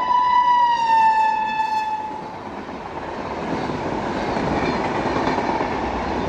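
Electric locomotive's horn held in one long blast, its pitch dropping about a second in as the locomotive passes, then fading. The horn gives way to the rising rush and rattle of a passenger train's coaches going by at speed.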